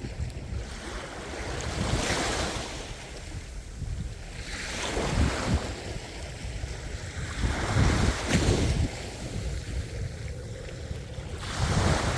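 Sea waves breaking and washing ashore, the surf noise swelling and ebbing in surges every few seconds, with low rumbling and wind on the microphone.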